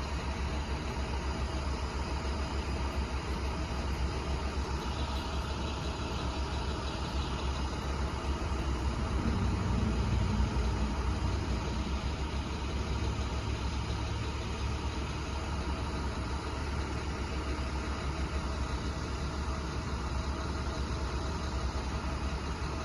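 Box truck engine running steadily, a low rumble that swells a little about ten seconds in.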